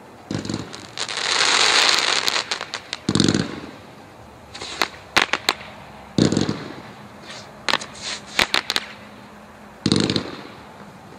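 Consumer aerial fireworks going off: deep booming breaks about every three seconds, with a long hissing, crackling shower and quick rattles of sharp crackles in between.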